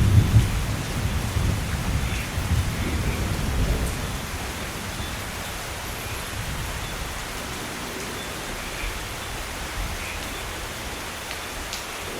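Steady rain falling, with a low rumble of thunder that is loudest at the start and dies away over the first few seconds, leaving the rain alone.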